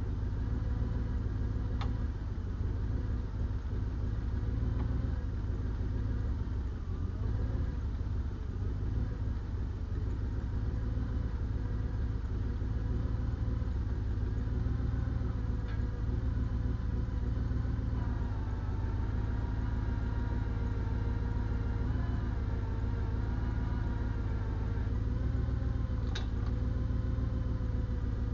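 An engine idles steadily, with a deep, constant drone. Its tone wavers slightly in the second half.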